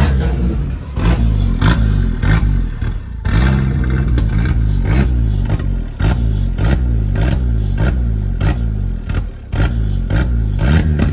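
Turbocharged Chevy Cavalier engine kept running by pumping the gas pedal, its revs rising and falling over and over, a little less than twice a second. It will not idle on its own, which the owners take for fuel starvation from a weak in-tank fuel pump.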